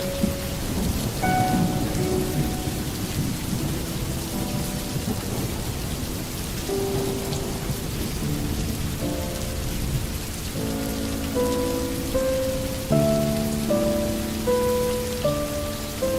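Steady rain falling with thunder rumbling, over a slow melody of held notes that changes pitch every second or so.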